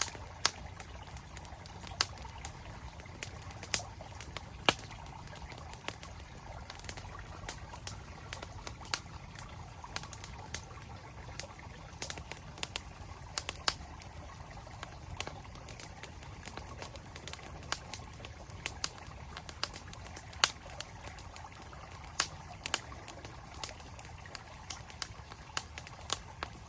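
Wood campfire crackling, with frequent sharp, irregular pops over the steady rush of a flowing mountain stream.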